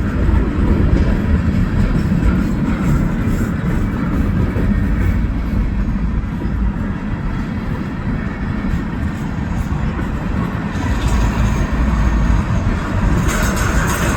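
A train rolling past as a steady, loud rumble, with more hiss coming in near the end.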